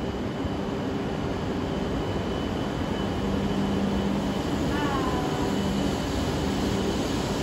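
Joetsu Shinkansen bullet train moving along the platform, a steady rumble with a pulsing hum that grows slightly louder partway through. A brief high falling sound comes about five seconds in.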